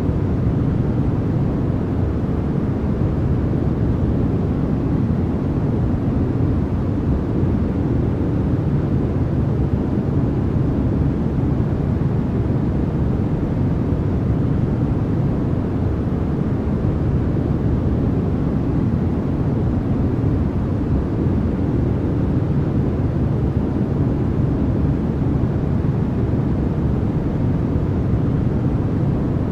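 Continuous, unchanging generated noise presented as white noise, with most of its weight low down, so it sounds like a deep, even rush rather than a bright hiss.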